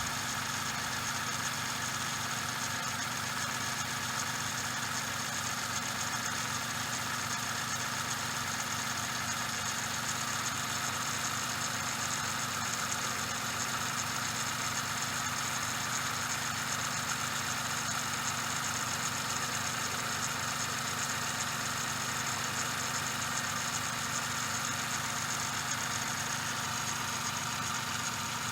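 Suzuki Every DA64V's small three-cylinder engine idling steadily, with a continuous hissing "shaa" whir from the belt tensioner pulley: the tensioner bearing has lost its grease.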